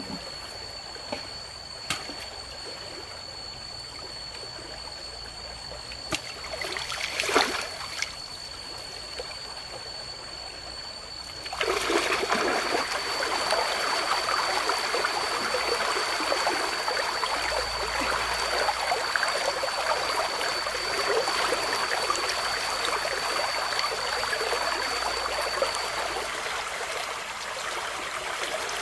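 River water trickling and running, with a splash about seven seconds in; the water grows noticeably louder from about eleven seconds in. A steady thin high tone runs alongside and stops near the end.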